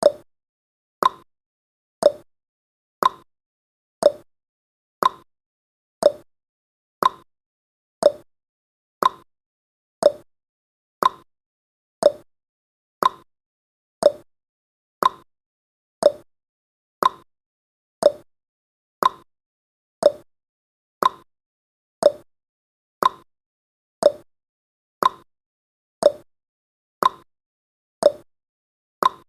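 Countdown timer's clock-tick sound effect: one short, sharp tick every second, each dying away quickly.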